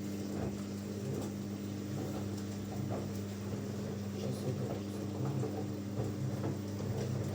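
Washing machine drain pump running with a steady hum while it pumps out the wash water at the first drain of the cycle, with faint irregular sloshing of water.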